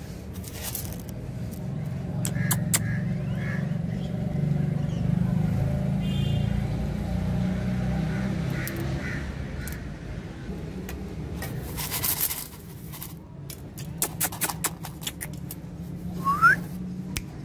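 A pet parrot's calls and sharp clicks, with a short rising whistle near the end, over a steady low rumble.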